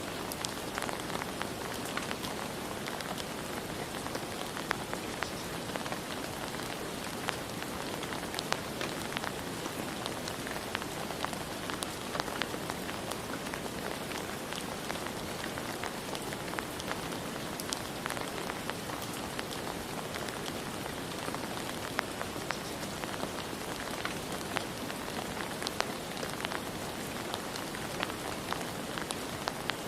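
Steady rain falling on surfaces, with many individual drops ticking sharply over an even hiss.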